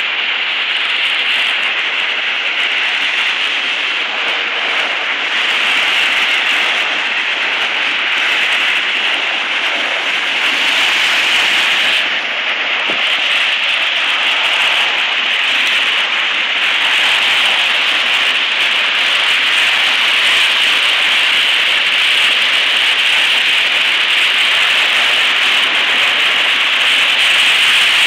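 Steady hiss of traffic driving through floodwater on a street, tyres throwing spray off the flooded road.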